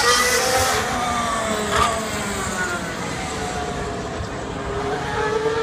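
Racing car engine at high revs, its pitch falling and then climbing again as it slows and accelerates, with one sharp crack about two seconds in.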